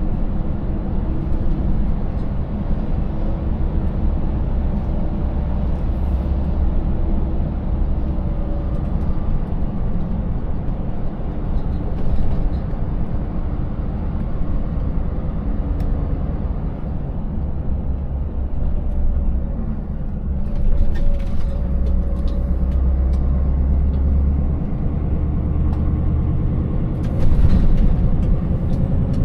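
Scania 590S 16-litre V8 diesel truck engine running under way, its note drifting up and down with road speed and load. Two short bursts of noise break through, about two-thirds of the way in and again near the end.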